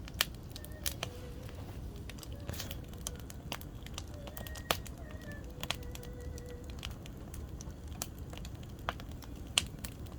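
Firewood burning in a campfire, crackling with scattered sharp pops, three of them louder, and a faint thin wavering whistle at times.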